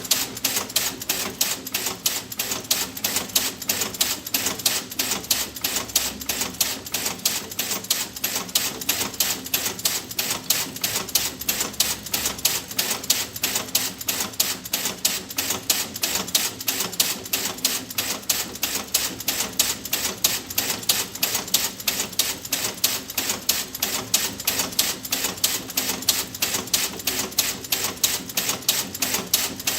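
Fast, even tick-tock clicking that goes on without a break, each click sharp and crisp, over a faint steady low hum.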